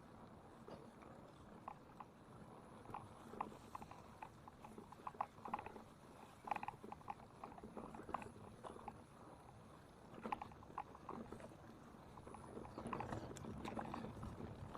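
Faint, irregular clattering knocks and clicks at an uneven pace, with a low rumble rising near the end.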